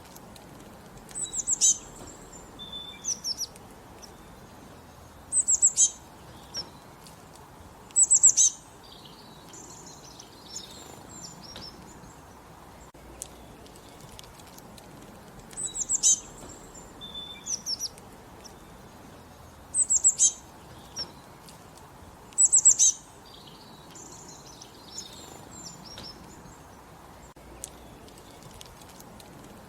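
Small songbirds singing in the countryside: short phrases of quick, high chirping notes repeated every few seconds, with softer twittering between, over a steady low background hiss.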